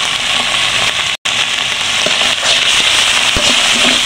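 Corned tuna with onion and chili frying in hot oil in a non-stick pan: a steady, crackling sizzle that breaks off for an instant about a second in. A few sharp clicks of a spatula stirring in the pan come in the second half.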